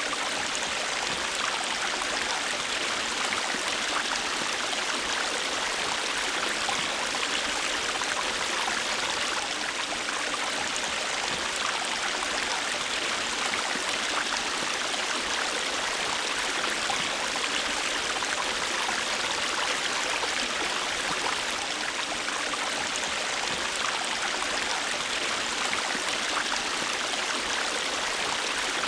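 River water flowing and rushing over stones in a steady, even wash, with small gurgles and splashes scattered through it.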